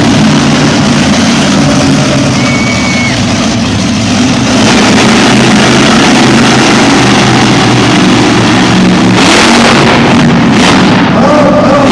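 A loud truck engine running at the event, growing louder about four and a half seconds in.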